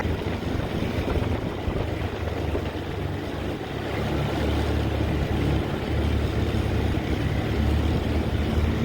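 Steady low drone of a vehicle's engine and road noise, easing slightly a couple of seconds in and building again about halfway through.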